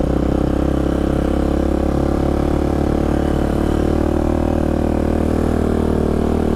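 Polaris Predator 500 ATV's single-cylinder four-stroke engine running steadily at low trail speed in first gear.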